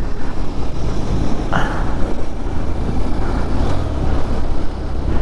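Motorcycle riding noise: an engine running under way mixed with wind rush on the microphone, a dense steady rumble. A brief higher tone sounds about a second and a half in.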